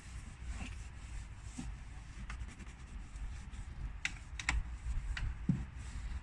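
Light, irregular clicks and taps of hands and tools working a dressing into plastic engine-bay trim, with two sharper clicks about four seconds in, over a low steady rumble.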